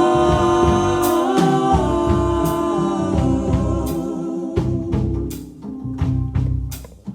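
Gospel music: voices holding long sung notes that step in pitch, over drum hits, fading down near the end.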